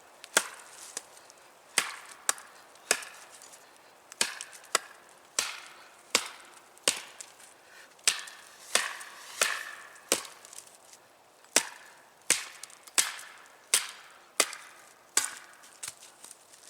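Machete chopping damp, rotten wood: a steady series of sharp chops, a little under two a second.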